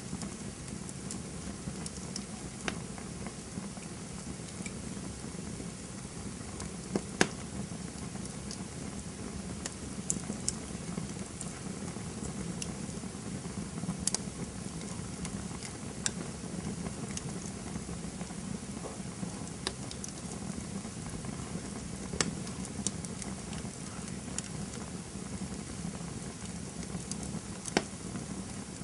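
Campfire burning with a steady low rumble and irregular crackles and pops, a few sharper snaps standing out.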